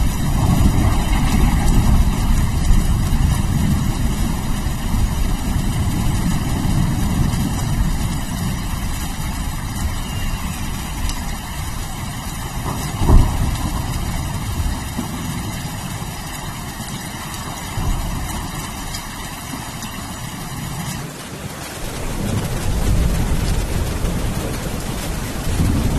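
Steady rain with thunder rolling low and continuous underneath. A sharp, loud thunderclap comes about 13 seconds in, and the rumble swells again near the end.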